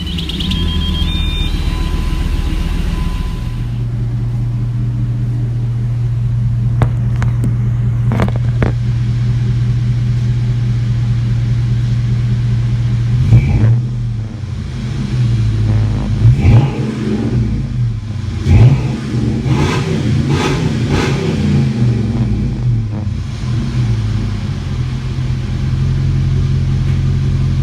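2004 Dodge Ram 1500's 4.7-litre V8 through a modified exhaust, idling steadily, then revved in a series of quick blips about halfway through before settling back to idle.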